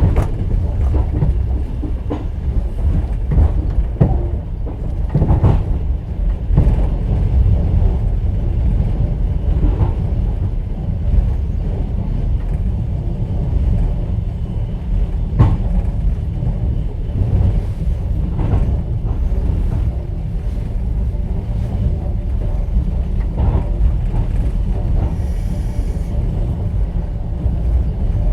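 Inside a moving passenger train's sleeper carriage: the steady low rumble of the running gear, with a sharp knock of the wheels every few seconds.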